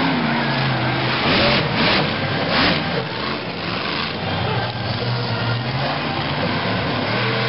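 Monster truck engine running, with three short, louder rushes of noise between about one and a half and two and a half seconds in.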